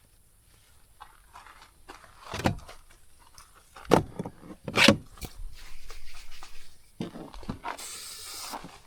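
Gear being handled at a car: a few sharp knocks and thuds with rustling, then a short hiss near the end.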